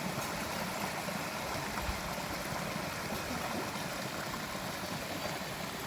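Steady rush of running water, an even unbroken wash.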